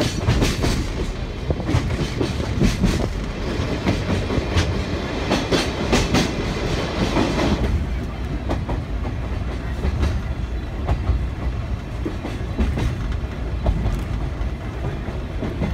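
Sagano Scenic Railway sightseeing train running, heard from the carriage: a steady rumble of the wheels with repeated clicks over the rail joints. The sound is harsher and brighter for about the first eight seconds, then duller.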